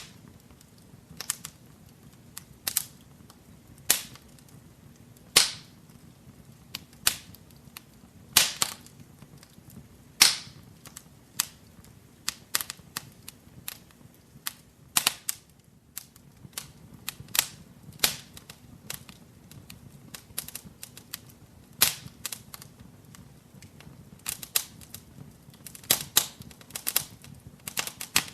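Wood fire crackling in a fireplace: irregular sharp pops and snaps, roughly one or two a second, over a faint low rumble of the burning.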